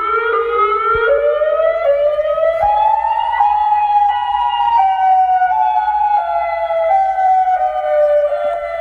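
Electronic multi-tone 'mega horn' playing a siren tone that climbs in small steps for about three and a half seconds, then slowly steps back down in pitch.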